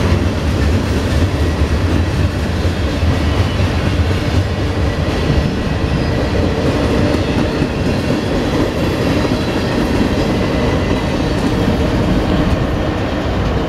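Norfolk Southern freight cars rolling past, a steady rumble of steel wheels on the rails.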